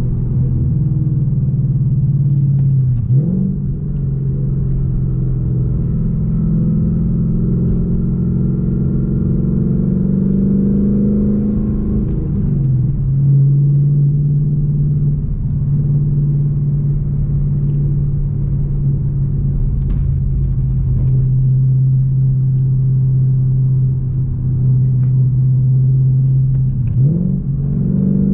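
A 2021 Ford Mustang GT's 5.0-litre V8 running under way, a steady low engine drone over road rumble. The engine pitch dips sharply and comes back three times, about 3, 12 and 27 seconds in.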